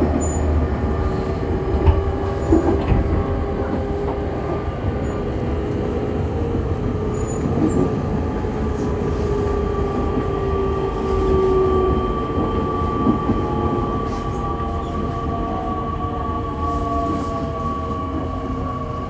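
E501-series electric train motor car heard from inside, slowing as it pulls into a station: traction motor whine with several tones gliding slowly downward over steady wheel-on-rail noise. A few sharp knocks come about two to three seconds in.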